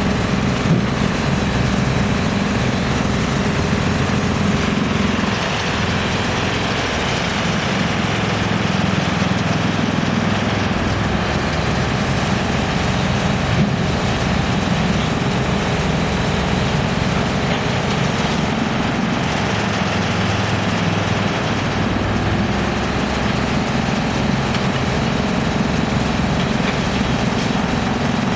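Large industrial wood chipper running with a steady, loud mechanical drone.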